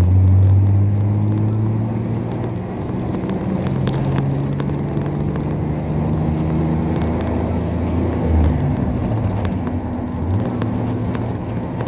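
A 1994 Ford F-150's 4.9-litre straight-six engine and drivetrain droning under way, heard from inside the cab. The engine note shifts to a new pitch about four seconds in and again near eight and ten seconds, as it goes through the five-speed manual gears and changes speed. Faint, evenly spaced light clicks run through the second half.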